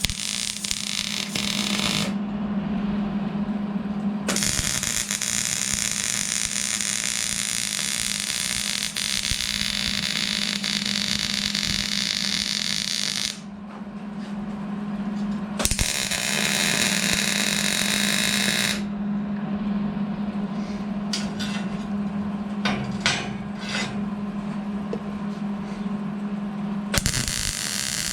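A power tool working on a freshly plasma-cut metal bracket to clean up its edges, running in long stretches with pauses and a few sharp clicks between them, over a steady low hum.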